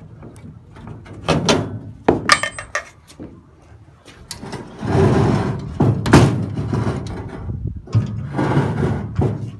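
A steel-framed, aluminum diamond-plate ramp being released: metal clanks, one with a brief ring, as its hitch pins are pulled, then long loud scraping and sliding as the ramp is drawn out and let down, with more clanking.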